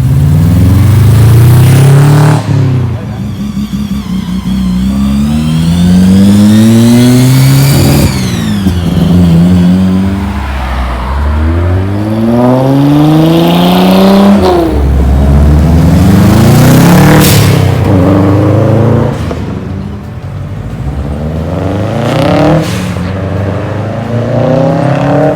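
Car engines accelerating hard through the gears, over and over. The pitch climbs, drops at each shift, then climbs again.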